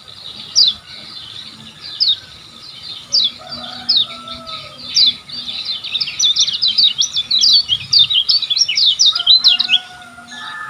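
Kecial kuning (white-eye) song: a few sharp, high, downward-sweeping chirps spaced a second or so apart, then from about six seconds in a fast, dense run of chirps lasting nearly four seconds.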